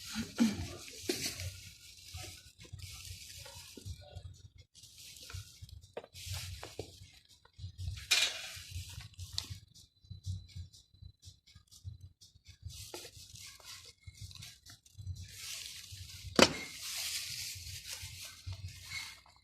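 Food frying in a pan while being stirred: on-and-off sizzling with scattered knocks of a utensil against the pan.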